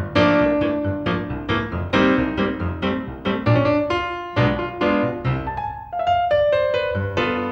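Solo piano music: a lively run of struck chords and notes, several to the second, as a silent-film accompaniment.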